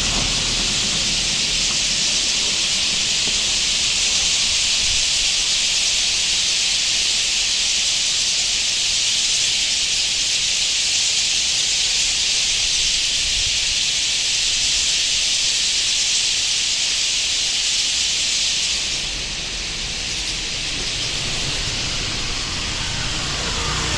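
Steady, high-pitched hiss that drops somewhat in level about 19 seconds in.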